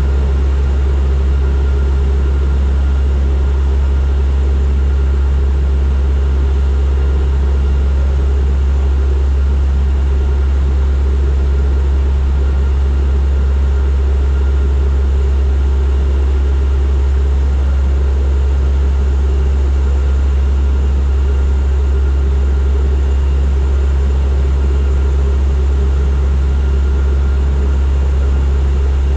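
Turboprop airliner's engines and propellers running at a steady, loud drone, with a strong low hum and a few faint steady whining tones above it, unchanging throughout.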